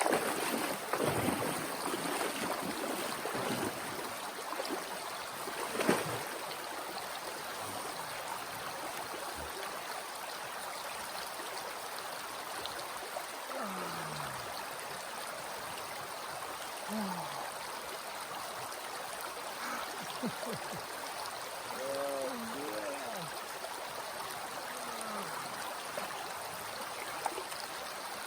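Cold, swift mountain river running steadily, with a sharp splash about six seconds in and a few short vocal sounds from a person later on.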